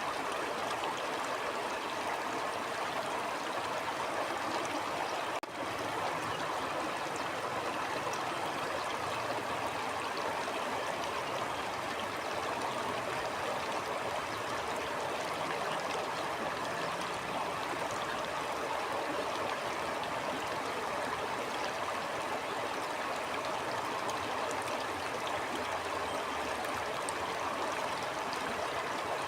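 Water of a stream flowing steadily over rocks, a continuous even rush, with a momentary dip in level about five seconds in.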